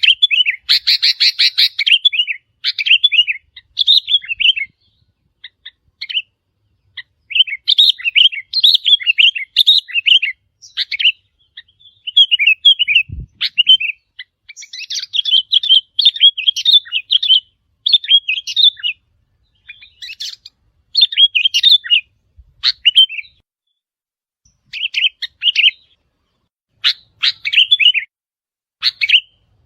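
Sooty-headed bulbul song: repeated bursts of quick, bubbling chirping phrases with short gaps between them, a territorial-challenge call meant to draw in and provoke wild bulbuls. A single brief low thump about halfway through.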